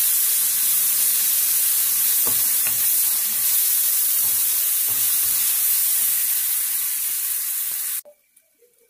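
Onions, green chillies and ginger-garlic paste sizzling in hot oil in a stainless steel kadai, stirred with a wooden spatula that knocks lightly against the pan now and then. The sizzle cuts off suddenly about eight seconds in.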